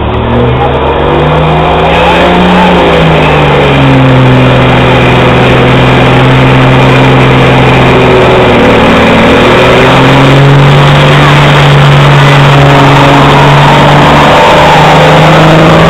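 Street semi truck's diesel engine running hard under heavy load on a pulling sled, loud. Its pitch climbs over the first couple of seconds, drops about three seconds in, then holds steady with a brief dip about nine seconds in and falls away near the end.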